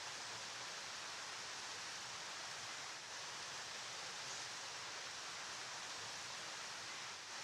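River water flowing, a steady, even rush with no changes.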